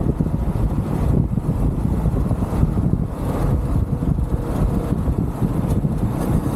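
UM Renegade Commando 125 motorcycle riding along, its 125 cc single-cylinder engine running steadily under heavy wind buffeting on the handlebar-mounted microphone.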